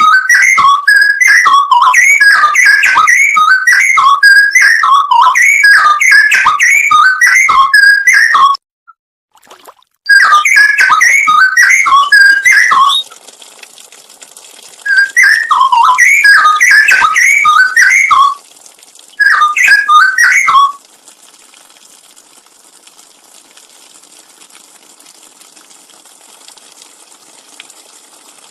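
Straw-headed bulbul (cucak rowo) singing: loud, rapid runs of liquid whistled notes in several bursts with short pauses between them. The song stops about two-thirds of the way through, leaving only a faint steady hiss.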